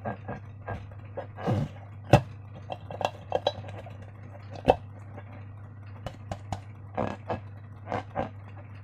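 Slime being worked by hand with rubber balloons: irregular short sticky clicks and squelches, some louder pops about two seconds in and near the middle, over a steady low hum.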